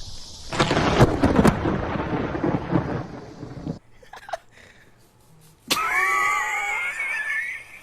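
A close lightning strike: a sudden loud thunder crack about half a second in, with sharp cracks inside a dense rumble. It cuts off abruptly after about three seconds. Near the end a high wavering cry follows a sudden onset.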